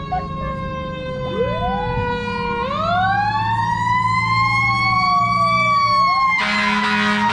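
Fire engine siren wailing, its pitch rising and falling in several overlapping sweeps. About six seconds in, a louder, harsher blare with steady tones cuts in over it.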